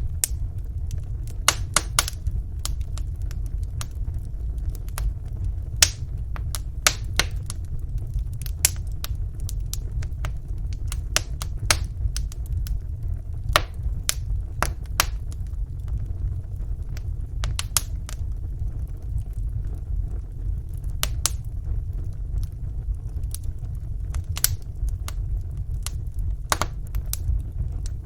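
Wood fire burning in a fireplace: irregular sharp crackles and pops, a few every second, over a steady low rumble of the flames.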